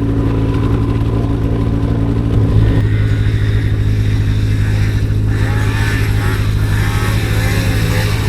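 Polaris RMK snowmobile's two-stroke engine running steadily under throttle, its note shifting about three seconds in and then holding steady.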